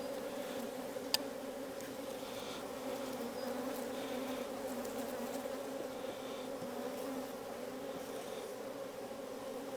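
Honeybees of an opened hive buzzing steadily in a dense, even hum. A single sharp click about a second in.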